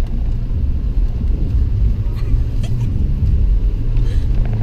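Steady low rumble of a car's engine and tyres on a snow-covered road, heard from inside the cabin while driving.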